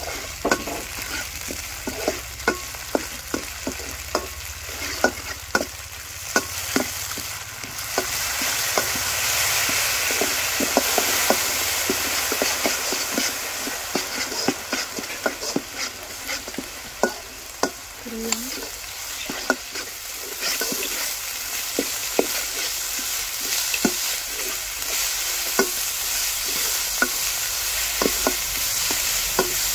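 Pounded spice paste frying in oil in a nonstick wok, sizzling steadily while a metal spatula scrapes and taps against the pan in quick, irregular strokes. The sizzle grows louder about eight seconds in.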